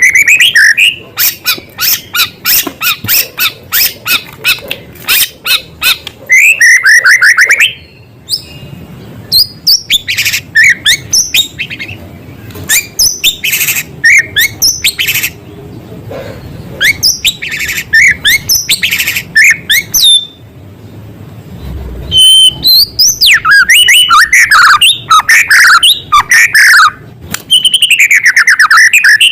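White-rumped shama (murai batu) singing loudly: fast runs of sharp chattering notes and slurred whistles, its song packed with mimicked calls of small birds, with brief pauses about eight and twenty seconds in.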